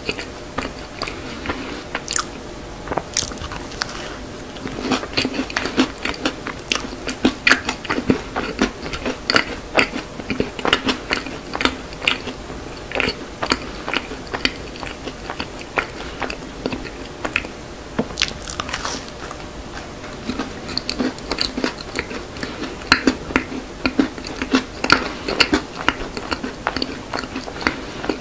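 A person biting into and chewing a macaron, with repeated crisp crunching and clicking mouth sounds; the chewing goes quieter for a few seconds around the middle.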